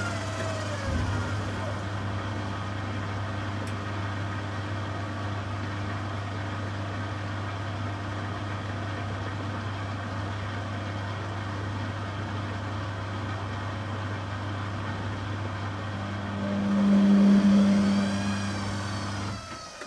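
Beko WTG620M1 washing machine running, with a steady motor hum. Near the end the motor whine swells, rising and then falling in pitch as the drum is driven round.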